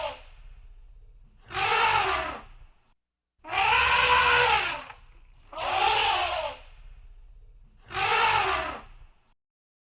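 Elephant trumpeting: four calls about two seconds apart, each a second and a half or so long and arching up then down in pitch, the second the longest.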